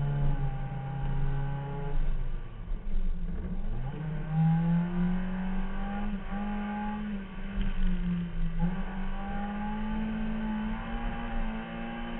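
Car engine heard from a camera on the hood, revving up and down as the car is driven: its pitch drops about two seconds in, climbs again a couple of seconds later and holds high, with small dips, over a steady low rumble.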